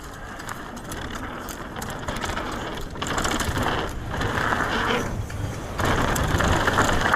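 Mountain bike coasting on a dirt trail, its rear freehub ratcheting, with tyres rolling over dirt and gravel, growing louder with brief let-ups.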